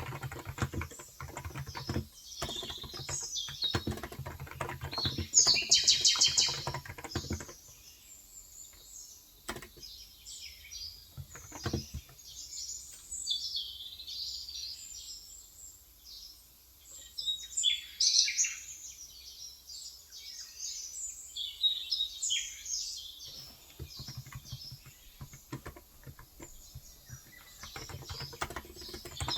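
Typing on a Cox Endeavour electro-capacitive (Topre-style) 35 g tenkeyless keyboard: quick runs of soft keystrokes for about the first seven seconds and again from about twenty-three seconds on. Birds chirp throughout and fill the pause in typing in the middle.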